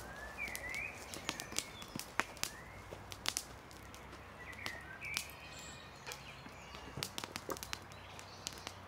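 Wood campfire crackling with irregular sharp pops, while small birds chirp now and then.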